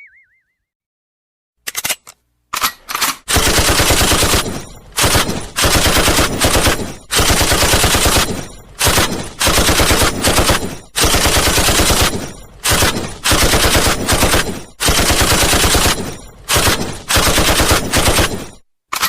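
Automatic machine-gun fire as a sound effect: rapid shots in long bursts broken by short pauses, starting about two seconds in and stopping just before the end.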